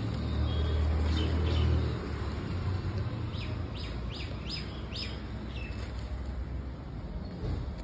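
A bird calling in a quick run of about six short chirps, each sliding down in pitch, about three seconds in. Under it, a low rumble that is loudest in the first two seconds.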